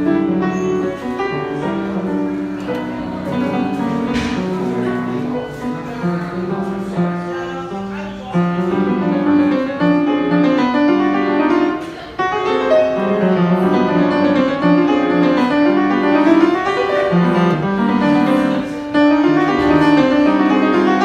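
Piano music, many notes and chords in steady succession.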